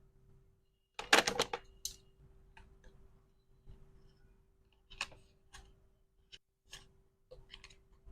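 Hands packing small items: irregular clicks, taps and rustles of plastic and packaging, with a louder brief rustling clatter about a second in. A faint steady hum runs underneath.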